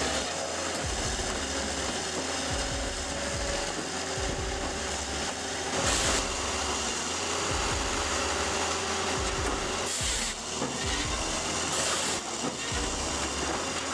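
Firewood processor at work: a steady mechanical running noise from the machine as logs are cut and split, with brief louder hissing bursts about six, ten and twelve seconds in.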